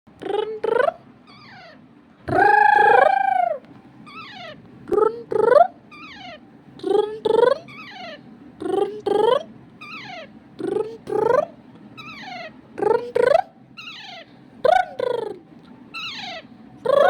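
Green parrot calling over and over: short, pitched squawks that bend in pitch, mostly in pairs about every two seconds, with one longer drawn-out call about two seconds in.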